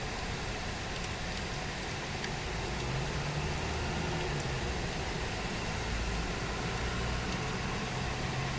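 Steady hiss of heavy rain falling, with a low engine hum underneath that grows louder about three seconds in, from a vehicle running nearby.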